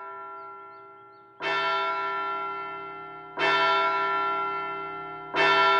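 A large clock bell tolling, struck three times about two seconds apart, each stroke ringing on and slowly fading over the tail of the one before. It strikes the hour, marking that time is up.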